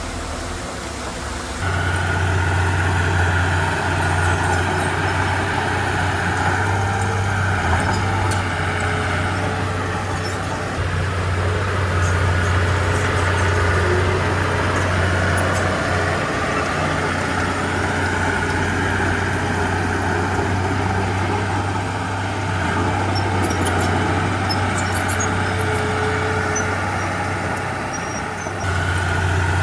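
Heavy diesel earthmoving engine running continuously with a strong low drone. Its level rises and falls as the load changes, stepping up about two seconds in and easing briefly near the end.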